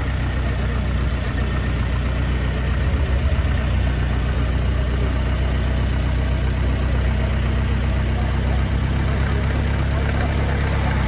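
1921 Ford Model T's four-cylinder engine idling steadily.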